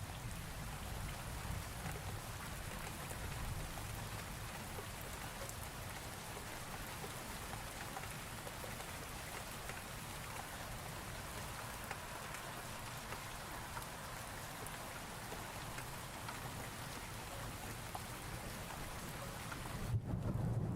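Steady rain falling, with a low rumble underneath. Just before the end the hissing thins out abruptly and a louder low rumble takes over.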